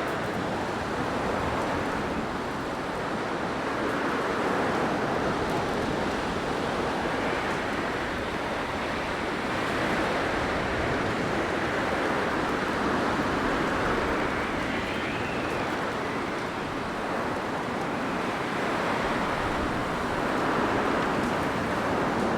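Blizzard wind blowing in a steady rush of noise that swells and eases slowly every few seconds.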